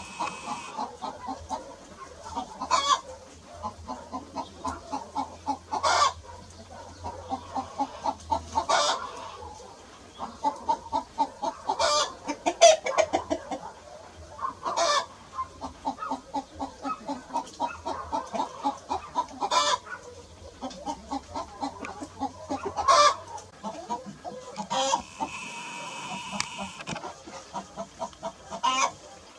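Chickens clucking continuously in quick runs of short notes, with a sharper, louder note every few seconds.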